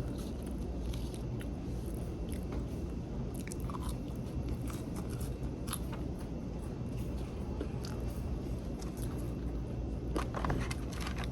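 Close-up chewing and biting of crispy fried fish, with scattered crunches that come a little louder near the end, over a steady low hum.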